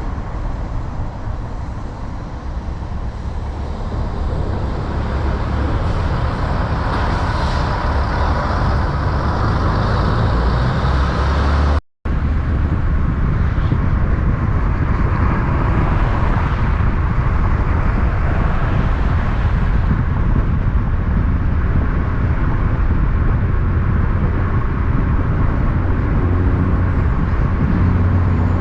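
Road traffic with vehicles, likely big rigs, passing, a low rumble that stays steady throughout. The sound cuts out completely for a moment about twelve seconds in.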